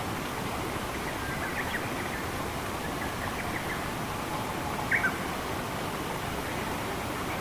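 Steady rushing water with small birds giving short, scattered chirps over it; the loudest chirps come about five seconds in.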